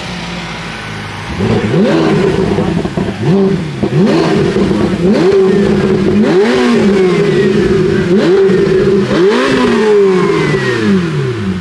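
A performance car engine being revved over and over in short, sharp blips, about one every one and a half to two seconds, each climbing quickly and falling back to a steady idle.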